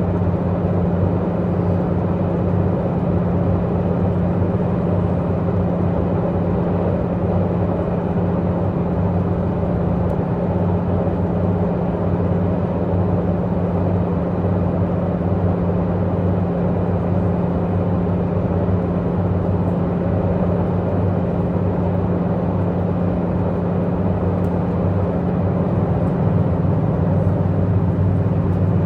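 Diesel multiple unit's underfloor diesel engine running steadily under way, heard from inside the passenger car: an even drone with a strong low hum, mixed with running noise from the train.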